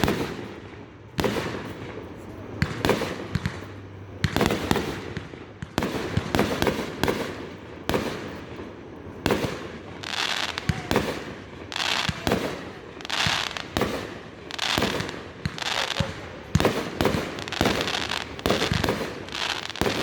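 Fireworks going off in quick succession: a dense string of bangs and pops, with bursts coming about once a second in the second half.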